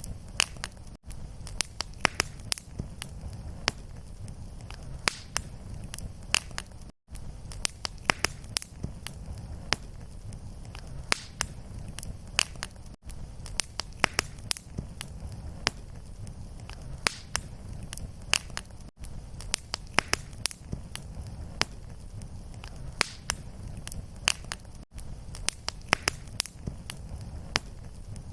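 Wood fire in a fireplace crackling and popping steadily over a low rumble. The sound cuts out briefly about every six seconds where the recording loops.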